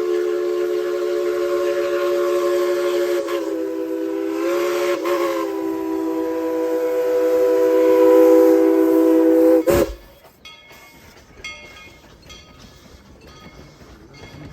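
Chime steam whistle of Tweetsie Railroad's 2-8-2 steam locomotive #190, newly fixed, blowing one long chord of several notes. The pitch wavers briefly about four seconds in, and the blast cuts off sharply about ten seconds in.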